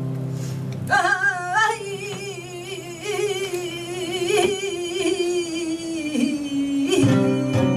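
Flamenco cantaora singing a long ornamented line of a petenera, her voice wavering in a wide vibrato as the melody slowly falls, over the last ring of a guitar chord. Flamenco guitar comes back in with a strum near the end.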